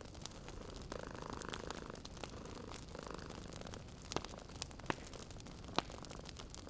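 Cat purring in soft, repeating in-and-out cycles over the steady crackle of a wood fire. Near the end the fire gives three sharp pops, the last of them the loudest sound.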